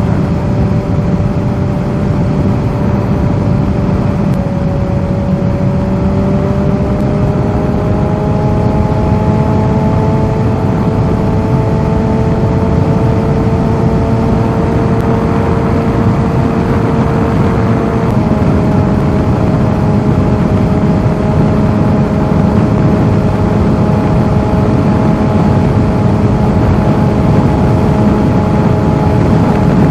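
Kawasaki Z H2's supercharged inline-four engine running under way, its pitch slowly climbing as the bike gains speed, then dropping in one step about 18 seconds in at an upshift. Steady wind rush runs underneath.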